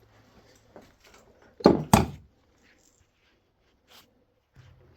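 Two quick, loud thuds about a quarter second apart, a little over a second and a half in, then a faint click near four seconds.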